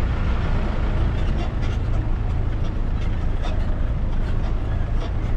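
Steady low road and engine rumble heard from inside a moving vehicle, with faint ticks and rattles over it.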